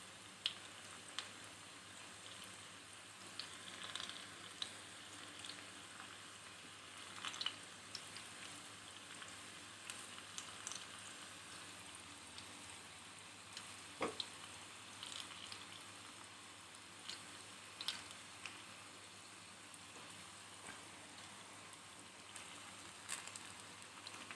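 Banana fritters frying in hot oil: a steady soft sizzle with scattered small pops and crackles, and one sharper click about fourteen seconds in.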